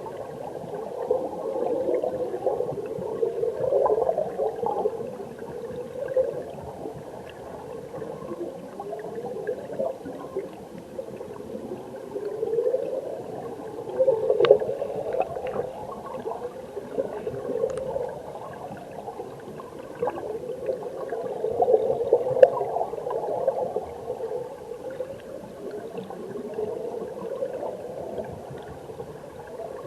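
Mountain stream heard underwater: flowing water gurgling and bubbling, muffled and low, swelling and easing every few seconds, with a few faint ticks.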